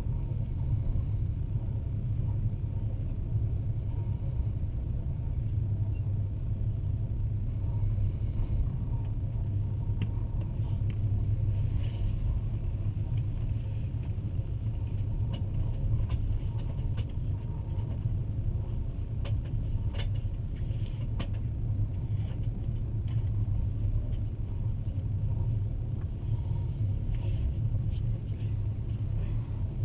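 Steady low rumble of a moving passenger train heard from inside the carriage, with a few faint scattered clicks.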